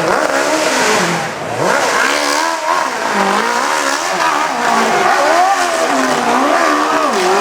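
Hill-climb motorcycle engine revving hard, its pitch rising and falling over and over as the rider works the throttle up the hill and over the jumps.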